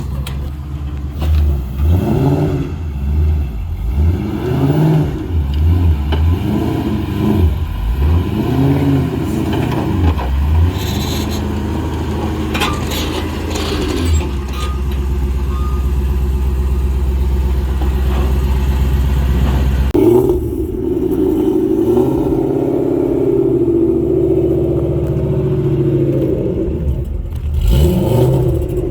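2013 Shelby GT500's supercharged 5.8-litre V8 running, revved in a series of short blips over the first ten seconds or so, then settling into a steady idle. About twenty seconds in the engine note shifts to a higher, steadier drone.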